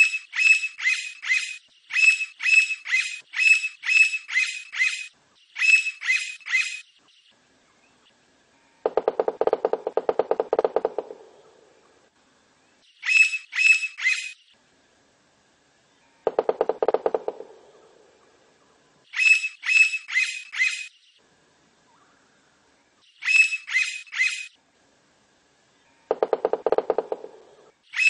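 Blond-crested woodpecker calling: bouts of loud, rapidly repeated ringing notes, three to eight at a time, several times over. Three times in between comes a burst of very fast, lower drumming on wood, each lasting a second or two.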